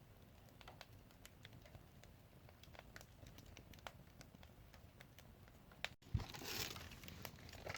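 Wood fire crackling faintly, with scattered sharp pops, under a cast-iron rice pot. A little after the middle there is a brief, louder rush of noise.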